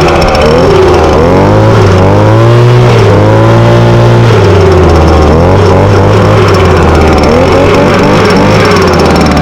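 A 2006 Echo PB200 handheld leaf blower's 21.2 cc two-stroke engine running loud, its pitch rising and falling several times as the throttle is worked.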